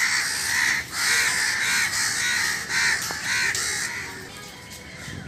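Birds calling: a run of harsh, repeated calls, about six or seven in the first four seconds, then fading away.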